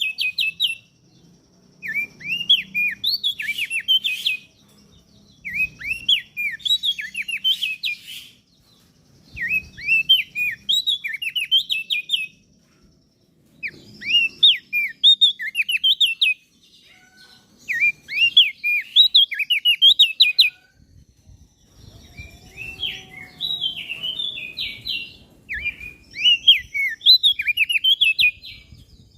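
Crested white-eye (opior jambul) singing: repeated phrases of rapid, high chirping notes, each phrase lasting a second or two, with short pauses between them.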